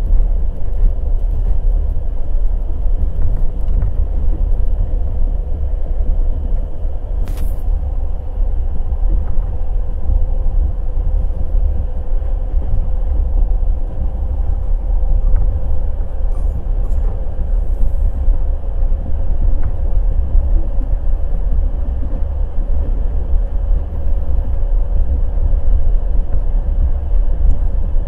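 Wheels of a night express passenger train rumbling steadily on the track at speed, with a steady hum above the rumble and one sharp click about seven seconds in.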